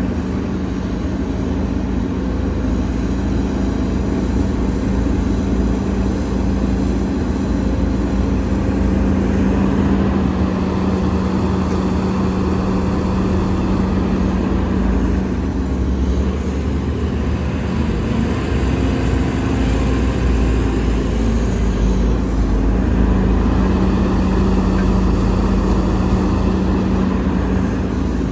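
Heavy diesel engine of an earthmoving machine running steadily under work, a constant low drone with a steady hum and slight rises and falls in level.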